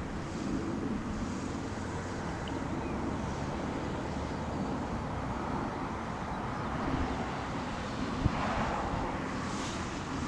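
Jet airliner engines giving a steady rumbling noise with a faint hum, and a single short knock about eight seconds in.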